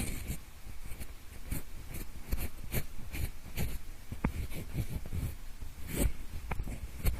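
Pencil scratching and rubbing close against the microphone in irregular short strokes and taps, in ear-cleaning style, with low handling rumble.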